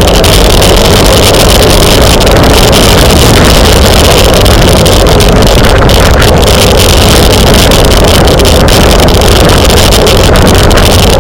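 Loud, steady wind noise buffeting the camera microphone of a bicycle racing at speed.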